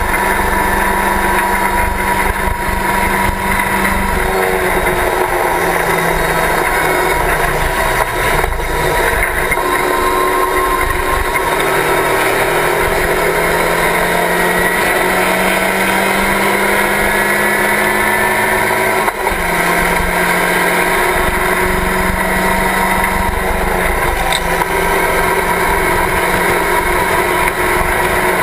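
Locost racing car's engine running hard, heard from its open cockpit over a steady rush of noise. The engine note dips about four seconds in, climbs gradually from about twelve seconds, and drops sharply near nineteen seconds in.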